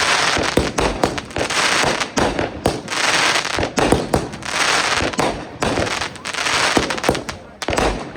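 Consumer fireworks going off in rapid succession: many sharp bangs and pops over dense crackling, with a brief lull near the end.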